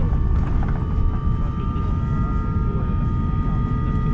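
Airbus A350 cabin noise with the aircraft on the ground after landing: a loud steady low rumble, with a thin high engine whine held above it that rises slightly in pitch.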